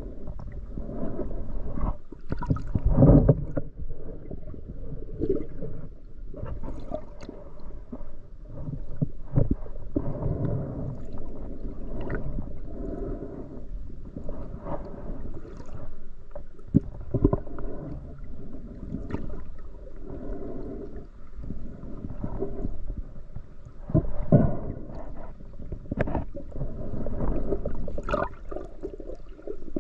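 Muffled water sloshing and gurgling, with irregular knocks scattered throughout, as heard by a camera in or at the water's surface.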